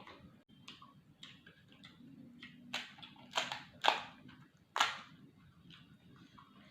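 Crunchy food being bitten and chewed: scattered crackles, with a few loud crunches about three to five seconds in.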